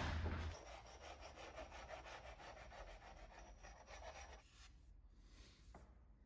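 Faint, quick, rhythmic rubbing strokes that stop about four and a half seconds in.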